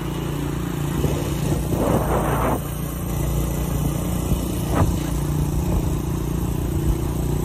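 Honda Supra motorcycle's engine running at steady riding speed while it pushes another motorcycle along, with wind and road noise that swells about two seconds in.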